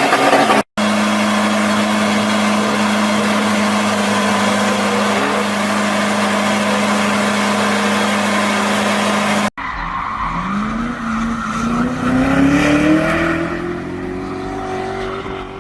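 Sports car sounds cut together: a loud, steady high-revving run with a fixed engine note for about nine seconds, then, after a sudden cut, a car accelerating with its engine pitch climbing steadily.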